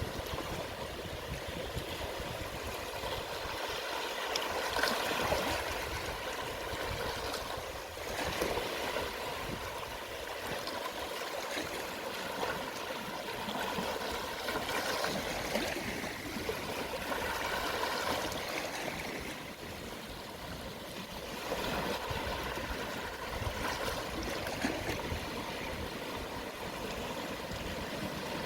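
Gentle sea waves washing onto the shore, a steady hiss of moving water that swells and eases every few seconds.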